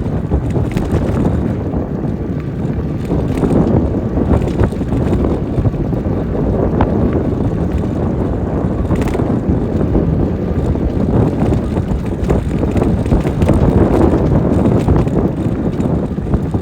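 Wind rushing over the microphone of a moving e-bike, with tyre noise from the rough road and scattered small knocks and rattles as it rides over bumps.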